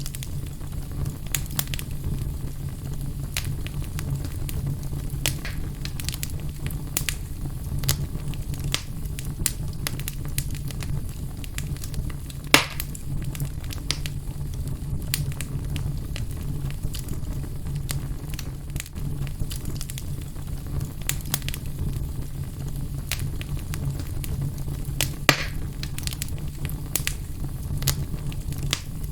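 Wood fire burning in a fireplace: a steady low rumble with frequent sharp crackles, and two louder pops, about midway and near the end.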